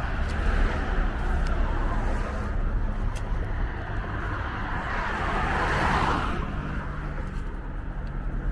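Road traffic noise over a steady low hum, with a vehicle passing that swells and fades about five to six seconds in.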